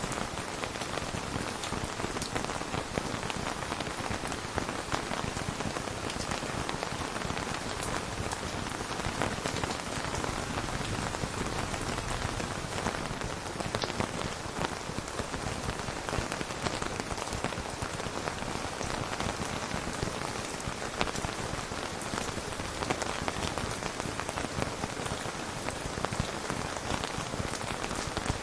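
Steady rain falling, with scattered individual drop hits heard over the even hiss of the downpour.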